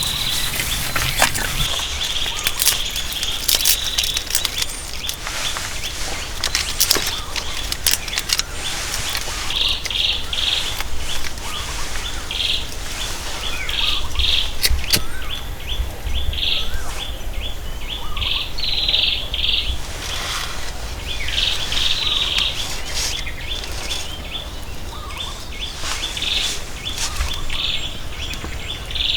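Birds chirping: a fast, evenly repeated string of short high chirps, with louder bursts of chirping every second or two. Scattered sharp clicks or knocks sound between them.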